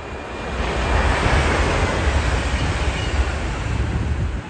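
SJ X2000 high-speed electric train passing at speed: a loud rush of wheels on rail and air with a deep rumble, building about half a second in and dropping away near the end. A faint high whine slides down in pitch as it goes by.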